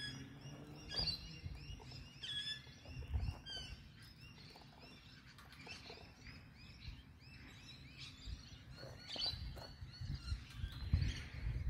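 Small birds chirping, with short calls repeated over and over, some overlapping, and a low rumble coming and going underneath.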